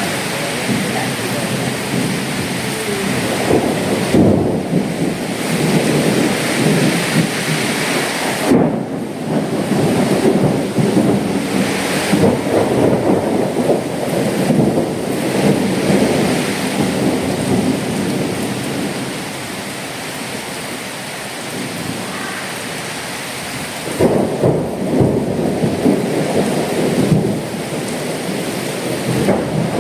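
Cyclone storm: heavy rain and strong gusting wind, a dense rushing noise that eases for a few seconds around twenty seconds in, then surges back.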